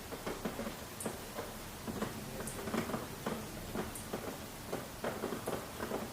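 Rain dripping and pattering: irregular drops tapping on a surface over a steady light hiss, with a faint sharp tick about every second and a half.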